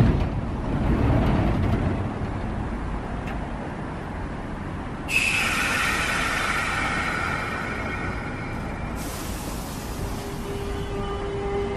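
A standing Sotetsu electric train releasing compressed air in a loud hiss for about four seconds, stopping suddenly. Near the end its traction motors start with a steady whine that begins to rise in pitch as the train pulls away.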